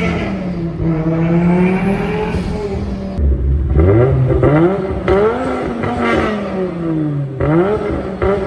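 Volvo inline five-cylinder engine revving. The pitch rises and falls through a long rev, cuts off abruptly about three seconds in, then comes back as a series of quicker revs that climb and drop.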